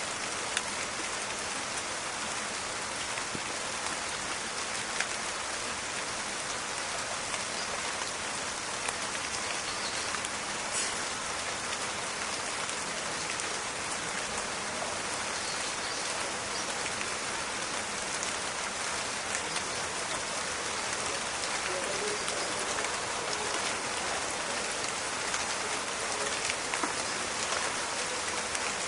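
Steady rain falling in a forest, an even hiss with many small crackling drop ticks on leaves and other surfaces.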